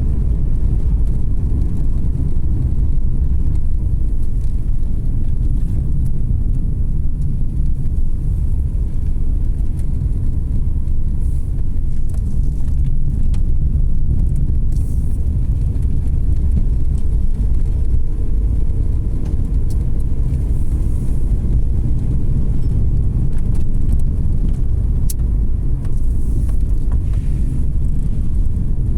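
A car driving along a winding road, heard from inside the cabin: a steady low rumble of engine and tyre noise.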